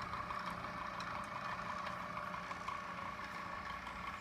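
Handmade display engine and transmission with viewing ports, turned over by an electric starter motor through a belt, running with a steady mechanical whir.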